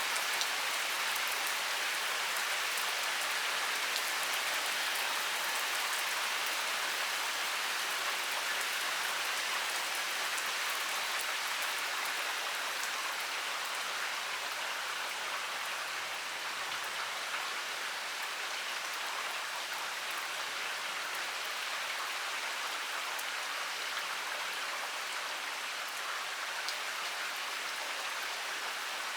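Heavy rain pouring steadily, a dense even hiss of drops striking a surface with fine scattered ticks of individual drops.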